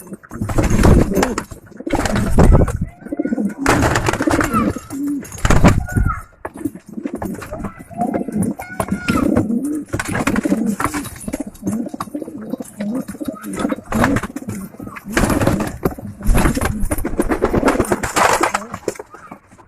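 Domestic pigeons cooing repeatedly, several birds at once, with loud bursts of rustling noise in between.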